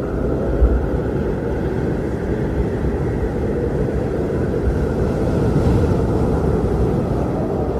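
Strong blizzard wind blowing steadily, a loud, deep rumbling noise that swells slightly now and then.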